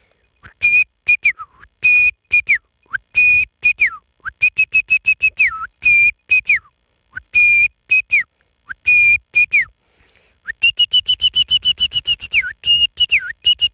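A man whistling an imitation of the red-wattled lapwing's call: short, high whistled notes in quick groups, many ending in a downward slur, with a fast run of rapid notes about two-thirds of the way through.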